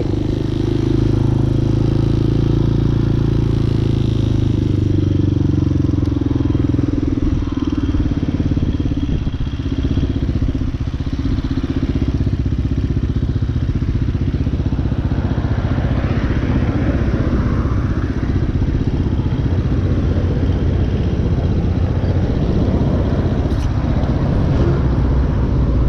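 Single-cylinder engine of a Hawk 250 dual-sport motorcycle running while it is ridden. It holds a steady note for the first few seconds, then turns rougher and busier for the rest.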